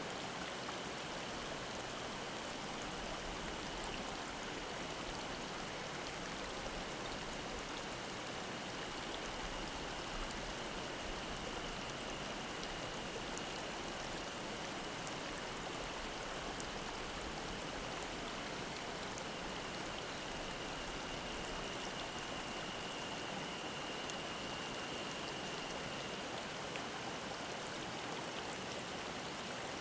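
Mountain stream flowing with a steady, even rush of water. A faint, high-pitched cicada drone comes in after several seconds, grows a little stronger, and stops a few seconds before the end.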